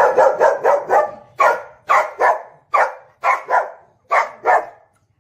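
A dog barking: a quick run of barks, then single barks mostly in pairs, stopping near the end.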